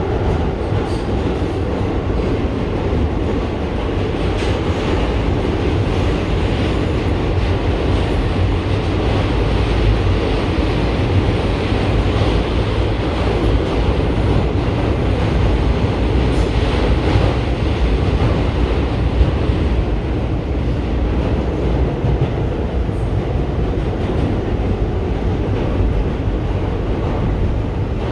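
Inside an R211T subway car running between stations: a steady, deep running noise of steel wheels on the rails and the car in motion, with a little clickety-clack.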